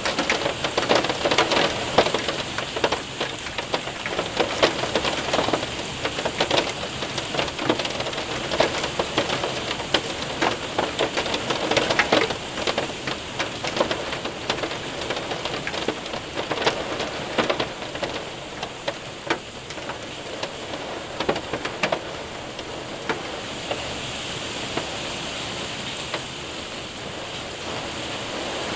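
Hail and rain hitting a window and roof: dense sharp ticks of hailstones over a steady hiss of rain. The hail hits thin out about two-thirds of the way through, leaving mostly steady rain.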